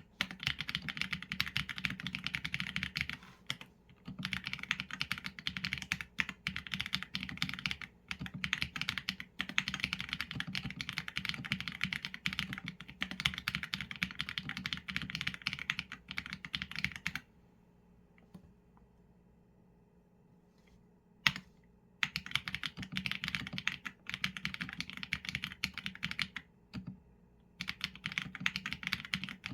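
Typing on a Qsenn A75 mechanical keyboard with Leobog Graywood v4 linear switches and PBT keycaps: quick runs of keystrokes with short pauses between them. Past the middle the typing stops for about five seconds, broken by one single sharp keystroke.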